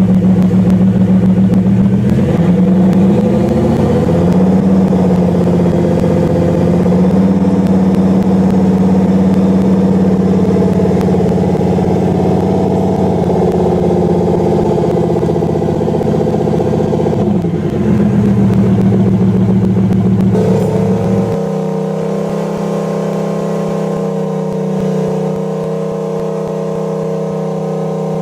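Bugatti Veyron engine heard through its Quicksilver aftermarket exhaust, running at steady revs with a rev rising and falling twice. About three quarters of the way through, the sound settles to a steadier, thinner tone.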